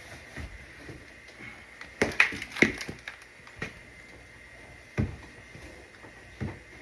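Irregular knocks and clunks of hard objects being handled and struck, several close together about two seconds in, then single ones about three and a half, five and six and a half seconds in.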